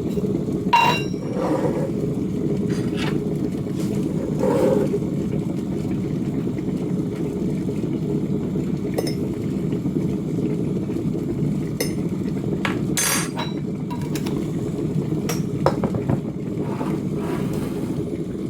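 Electric kettle heating water close to the boil: a steady low rumble, with a few light clicks and clinks scattered over it.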